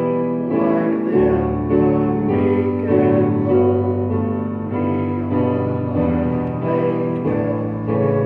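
Piano music: sustained chords changing every half second to a second.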